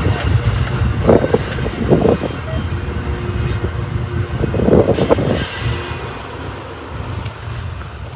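Freight train rolling past on the main line, a low steady rumble with short bursts of clatter and a high wheel squeal about five seconds in; the rumble eases near the end.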